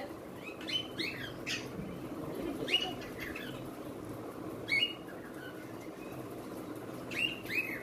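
Birds chirping in short, quick, falling notes, in small clusters every second or two, over a faint steady background hum.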